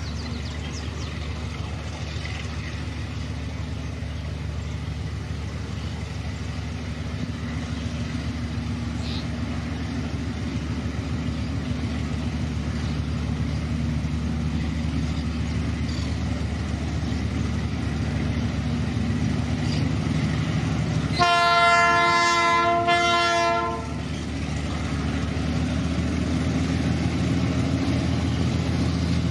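Two diesel locomotives, an EMD GR12W and an ALCO RSD16 working in tandem, running under load as they haul a heavy freight train up a grade; the engine drone slowly grows louder. About 21 seconds in, the locomotive horn sounds a loud multi-tone blast for about two and a half seconds.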